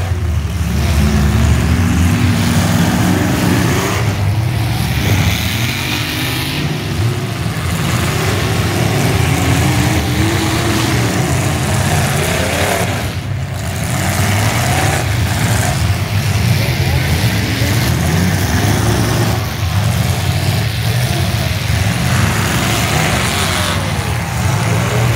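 Several demolition derby cars' engines running loudly and revving up and down as the cars drive around and into each other on a dirt track.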